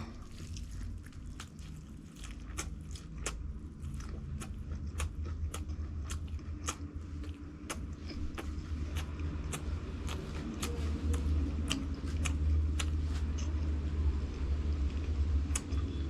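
Close-miked chewing and biting of crunchy fried food, with a run of sharp crunching clicks about twice a second over a deep steady rumble.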